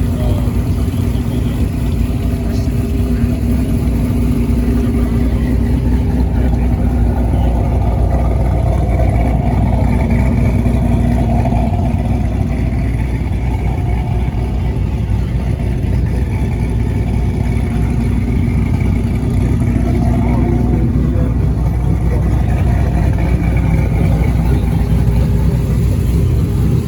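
Car engine running, with a steady low rumble and an engine tone that shifts in pitch a few times.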